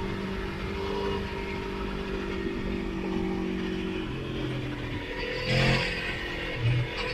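Motorcycle engine heard on board while riding. It runs steadily at moderate revs after the rider eases off, with wind noise and a short louder burst about five and a half seconds in.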